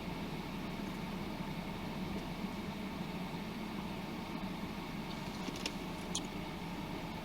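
Steady low hum of a car engine idling, heard from inside the cabin, with a few faint light clicks about five to six seconds in.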